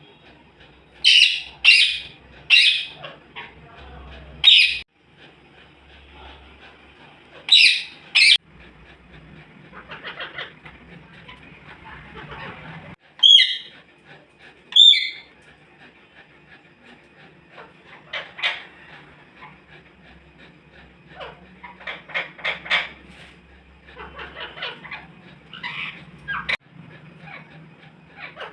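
Pet parrot calling: a series of loud, short squawks in the first nine seconds, two warbling calls that bend in pitch around thirteen to fifteen seconds in, then softer rapid chattering.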